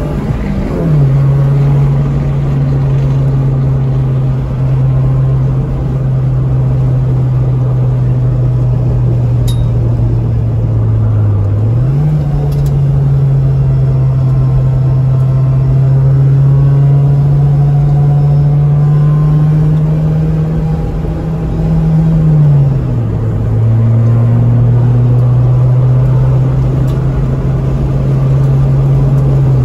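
Ford Focus engine pulling hard, heard from inside the cabin over road and wind noise. Its pitch drops at a gear change about a second in, jumps back up about twelve seconds in and climbs slowly for about ten seconds. It drops again at another shift a little past twenty-two seconds and falls away near the end.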